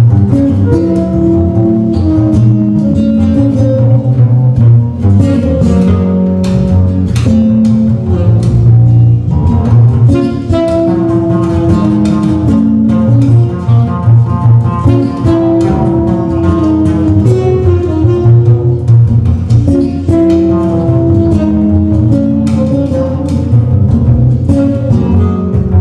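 A trio playing live instrumental music: quick plucked notes over a strong, busy bass line.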